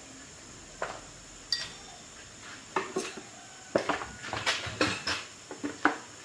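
Scattered light clinks and knocks of small hard objects being handled and set down, sparse at first and coming more often from about halfway through.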